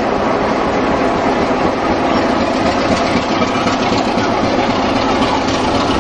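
A train running on rails: a steady, loud, noisy rumble with no clear beat or single event.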